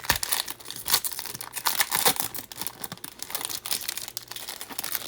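Wrapper of a Bowman Jumbo Hobby baseball card pack being torn open and crinkled by hand: a dense run of sharp crackles and rustles.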